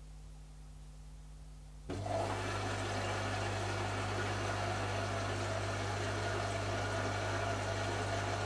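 Zanussi ZKN7120L washing machine suddenly starting to move water about two seconds in: a steady hum with rushing water over it, which carries on.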